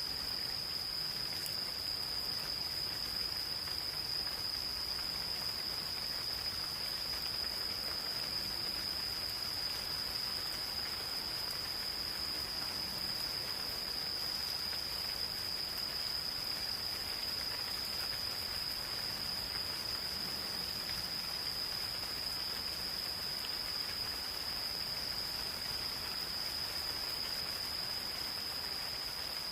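Insects trilling in one continuous, steady high-pitched tone, over the soft even patter of light rain in the forest.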